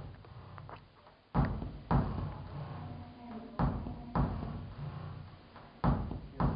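Sharp knocks in three pairs, the two in each pair about half a second apart, each knock ringing briefly as it dies away.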